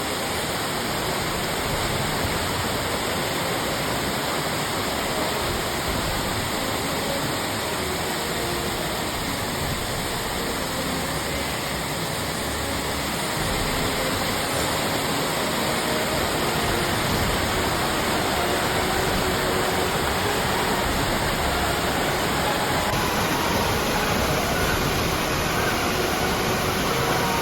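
Waterfall rushing: a steady, even noise of falling water, a little louder from about halfway through.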